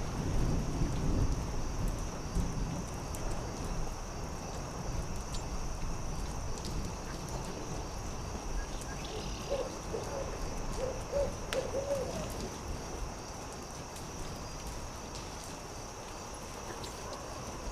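An owl hooting: a run of about five short hoots about ten seconds in. Under it, a campfire crackles with scattered sharp pops, and a low rumble sits in the first couple of seconds.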